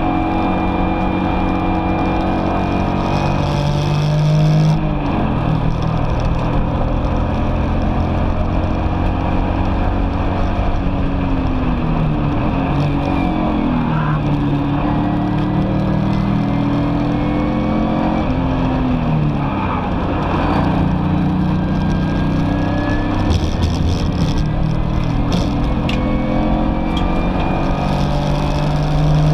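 BMW E46 ZHP's 3.0-litre inline-six engine at racing speed, its pitch climbing under throttle and dropping at gearchanges and lifts several times.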